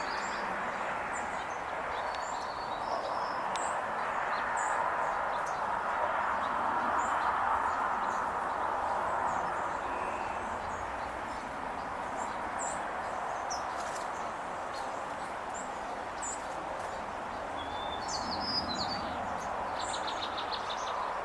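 Sparrows, mostly white-crowned and golden-crowned, giving short high chirps and call notes throughout, with a quick rapid trill near the end, over a steady rushing background noise.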